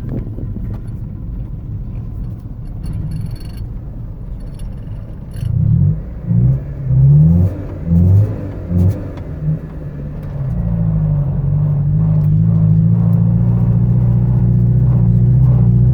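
Honda Civic (EG) engine idling, then revved in about five quick blips from around five seconds in, then held at a steady higher speed from about ten seconds on. The car has an exhaust leak, which the owner links to a loss of power.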